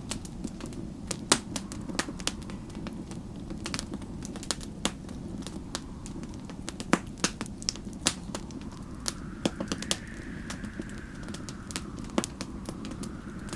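Wood fire crackling, with frequent sharp pops over a steady low rumble. From about nine seconds in, a faint storm wind howls in the background, rising and falling in pitch.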